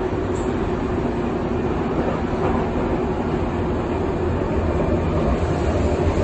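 Berlin U-Bahn U3 train running on the rails, a steady rumble with a constant hum, the low rumble swelling in the second half.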